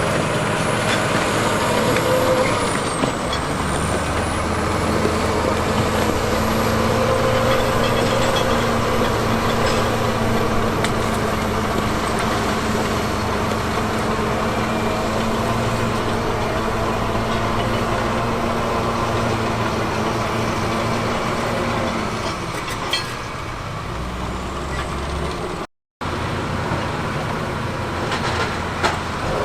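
Heavy diesel engine of earthmoving machinery running steadily under load, with a faint high whine above it. The engine note changes about three-quarters of the way through, and the sound cuts out for a moment near the end.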